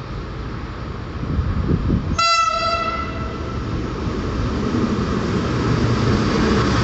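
A train running past with a growing rumble and rail hiss, sounding one short horn blast about two seconds in.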